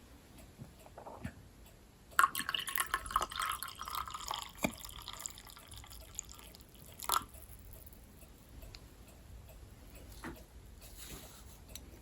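Tea being poured into a cup for about three seconds, starting suddenly about two seconds in, followed by a single sharp clink near seven seconds.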